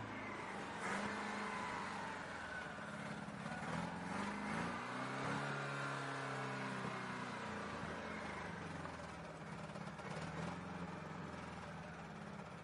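Car engine running and being revved, its pitch rising and falling a few times around the middle, then settling into a steady run.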